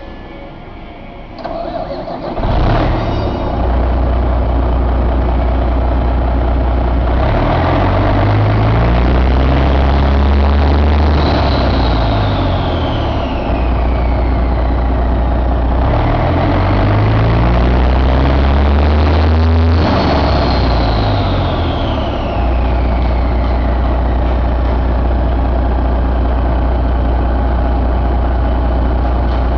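1997 Detroit Diesel Series 60 12.7-litre inline-six turbodiesel cranked on its starter and catching about two seconds in, then idling. It is revved up twice and let fall back, each time with the turbocharger whine dropping in pitch as it spools down, before settling into a steady idle.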